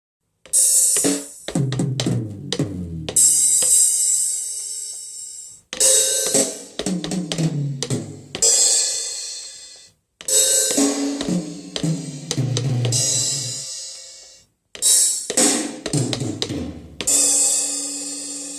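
Ion electronic drum kit playing the same short fill four times. Each fill opens with a cymbal hit, runs down the toms from high to low, and ends on a crash cymbal that rings out and fades.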